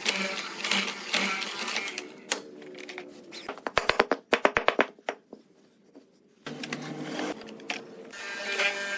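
A quick run of sharp clicks or taps lasting about a second, about four seconds in, between stretches of background music, followed by a brief near-silent pause.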